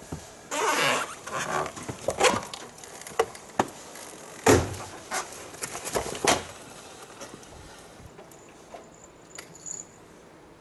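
Rustling, scattered clicks and knocks of someone handling things, with one louder thump about halfway through; it gets quieter in the last few seconds.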